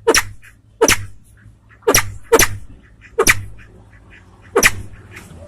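Sempidan biru (crested fireback pheasant) calling: six short, sharp calls at uneven spacing, two of them close together about two seconds in.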